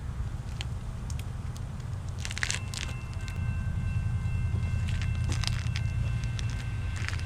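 Diesel freight locomotive rumbling as a train approaches, with scattered clicks. From about three seconds in, faint steady high tones at several pitches sound together.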